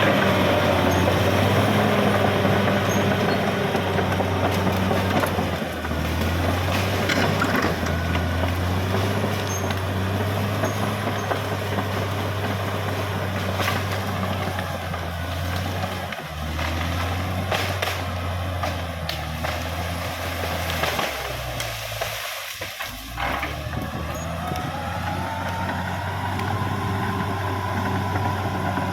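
Caterpillar D6R XL bulldozer's diesel engine running under load, with scattered clanks. About two-thirds through, the engine note dips briefly, then rises again as it revs back up.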